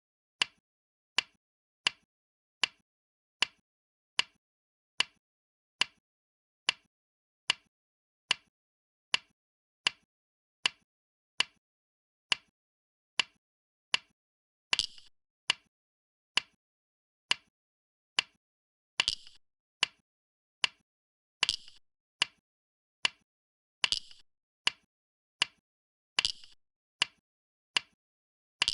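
Go stones being placed on a board, one sharp click about every three-quarters of a second in an even rhythm, as a game record is played back move by move. Five of the clicks are louder and longer, trailing off in a short clatter.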